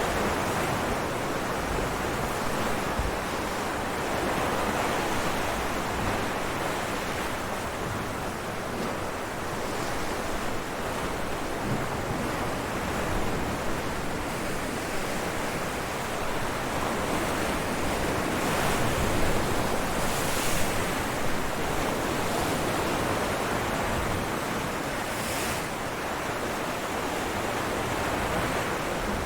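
Ocean waves breaking on rocks: a continuous wash of surf that swells and eases, with a few brighter splashes of spray partway through and near the end.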